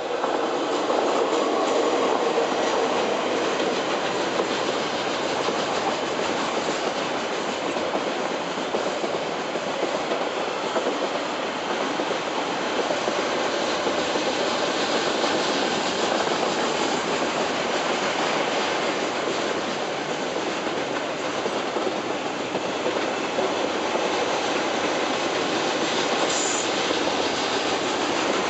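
A KiwiRail diesel freight train passes close by. Its two locomotives, DL 9095 and DXB 5051, go by in the first few seconds with an engine note. A long steady rolling noise follows as container and tank-container wagons pass, with a brief high squeal near the end.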